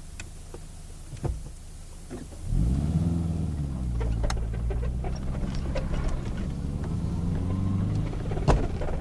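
Car engine idling, then revving up about two and a half seconds in as the car moves off, running steadily louder after that. A few light clicks and knocks sound over it.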